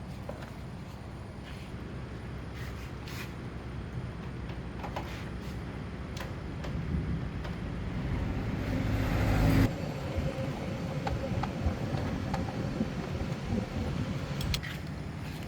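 A radio-controlled car's motor running, building up over a few seconds to a loud peak about two-thirds of the way through, then dropping suddenly and running on more quietly with a steady hum.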